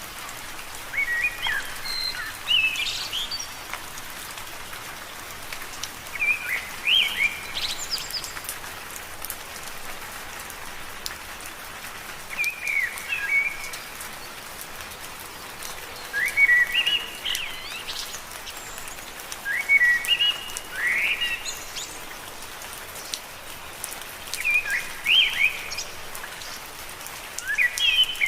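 Steady rain pattering on leaves, with a bird repeating a short chirping phrase every four to five seconds, about seven times.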